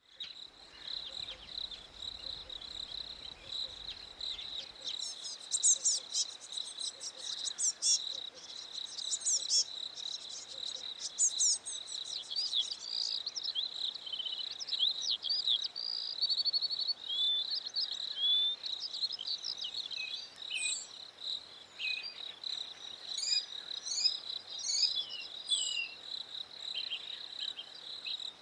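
Crickets chirping steadily at one high pitch, with birds calling over them. Rapid high trills come from about five seconds in, then many short whistled and sliding notes from about twelve seconds on.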